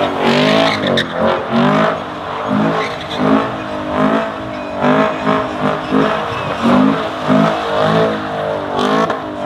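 Vehicle engine revving again and again, its pitch rising and falling about once a second.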